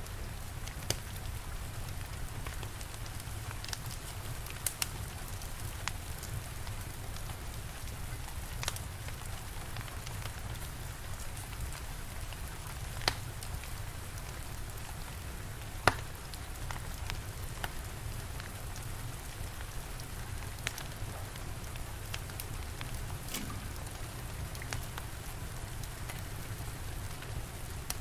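Steady rain with a low rumble underneath, and a wood fire crackling with scattered sharp pops; two louder pops come about halfway through.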